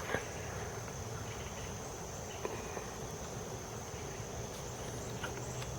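Crickets chirring as a steady, high, even trill, with a couple of faint clicks near the start.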